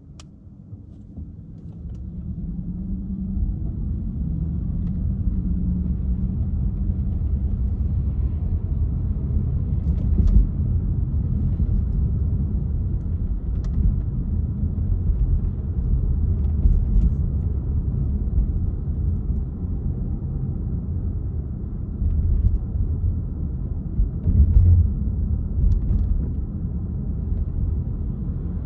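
Car driving on city streets: a steady low rumble of engine and tyres that grows louder over the first few seconds, then holds, with a few short knocks over bumps.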